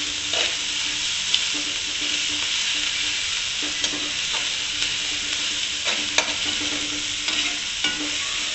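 Chicken, onion and green chillies sizzling in hot ghee in a metal karahi while they are stirred, the metal spatula scraping and clinking against the pan now and then, once more loudly about six seconds in.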